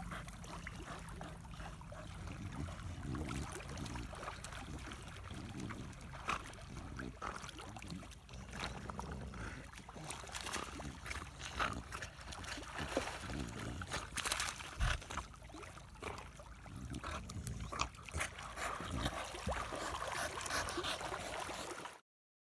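Faint outdoor water sounds: gentle lapping with scattered small splashes over a low rumble.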